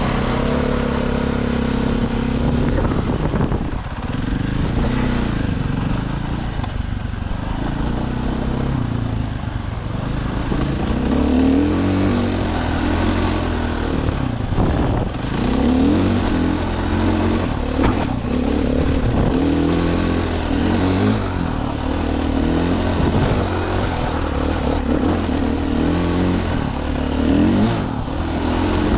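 Dirt bike engine being ridden, its revs rising and falling again and again through the throttle and gear changes, with more frequent swings in the second half.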